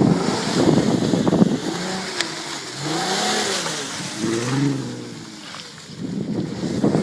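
Volkswagen 4Motion car's engine revving up and down three times in quick swells, each rise and fall of pitch lasting about a second, over a rushing noise. The revs fade out near the end.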